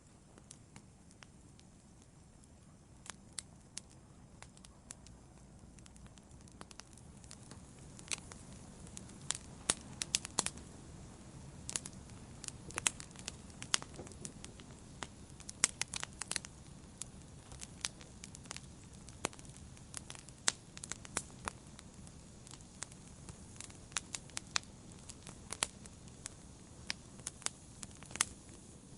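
Wood campfire burning gently: irregular sharp pops and crackles over a soft low hiss of flames. The pops are sparse at first and come thicker after the first several seconds.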